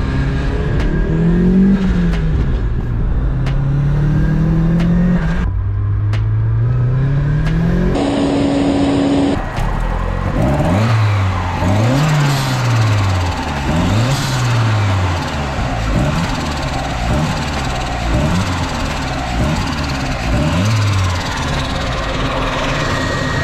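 Boosted Mazda Miata four-cylinder engine, first pulling up through the gears with the pitch climbing and dropping at each shift, then, after a cut about nine seconds in, revved repeatedly in short quick blips while standing still. The blips are a leak test of a newly fitted crankcase catch can.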